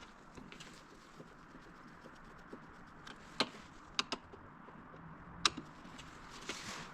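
A few light, sharp clicks and taps of a Phillips screwdriver working the small screws of a car door trim piece, with a brief rustle of handling near the end.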